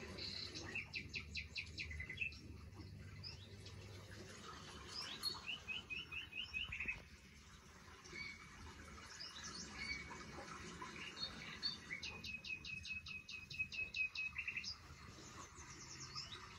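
Birds singing: several runs of rapid, evenly repeated high chirps, each run lasting one to three seconds, with single chirps in between.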